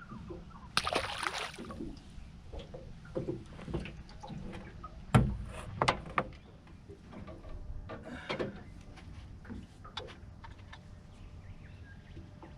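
Knocks and handling noises in a small fishing boat: a short rush of noise about a second in, a sharp thump about five seconds in that is the loudest sound, then a few lighter knocks.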